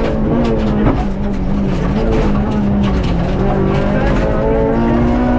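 Honda Civic Type R FN2's 2.0-litre four-cylinder engine, heard from inside the cabin, running hard at a near-steady high pitch. The pitch dips briefly about a second in, then holds again.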